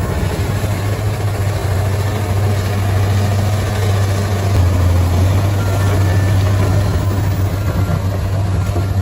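Bulldozer's diesel engine running steadily, a low rumble that grows a little louder around the middle.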